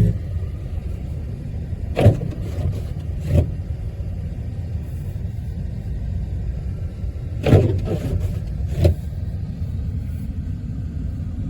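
Snowstorm wind buffeting the microphone: a steady low rumble, with brief louder gusts about two seconds in, at about three and a half seconds, and twice more near the end.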